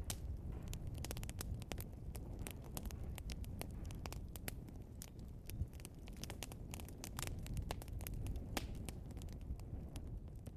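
Burning logs crackling and popping: frequent, irregular sharp snaps over a steady low noise from the flames.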